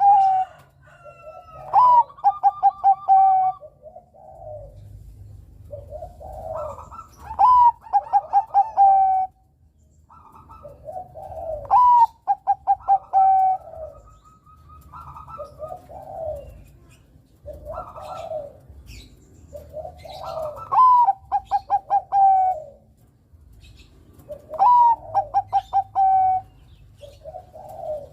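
Bangkok-strain zebra dove (perkutut) cooing: phrases that open with a rising note and run into a quick string of short coos on one pitch, repeated every four to five seconds. Softer, lower coos fall between the phrases.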